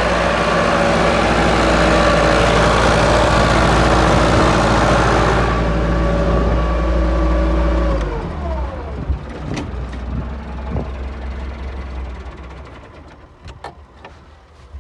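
Tractor engine running at working revs to drive a slurry lagoon stirrer, with a hissing rush over it that stops about five seconds in. About eight seconds in the revs drop with a falling pitch and the engine settles to a low idle, the stirrer switched off, fading with a few clicks near the end.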